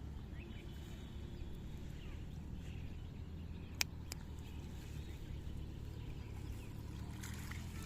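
Faint bird chirps over a steady low rumble, with two sharp clicks about four seconds in.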